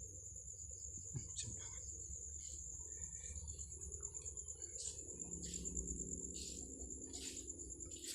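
Crickets chirring in one steady, unbroken high-pitched trill, with faint scattered rustles and knocks underneath.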